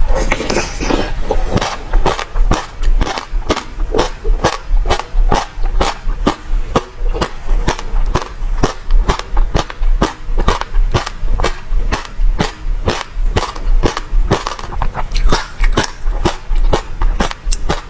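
Close-miked eating of passion fruit: rapid, irregular sharp crunches and clicks, about three to four a second, as the seeds are chewed, over a steady low hum.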